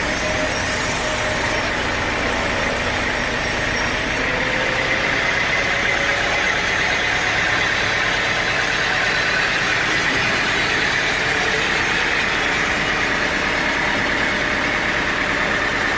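Sawmill machinery running steadily: an engine-driven saw with a constant mechanical drone and a hiss around the blade, with no breaks or cuts starting or stopping.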